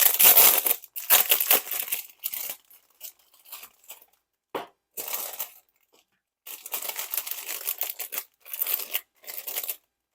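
Packaging being torn and crinkled open by hand, the kit's inner package that holds the diamond-painting drills and tools. It comes in irregular rustling bursts with short pauses, loudest at the start.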